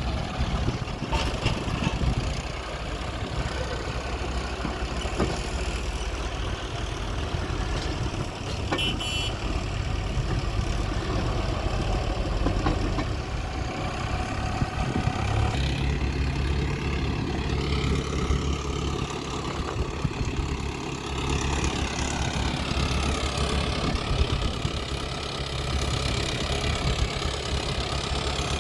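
Diesel engines of a Hyundai 140 excavator and farm tractors running steadily while mud is loaded, the low engine note growing heavier about halfway through. A brief high tone sounds about nine seconds in.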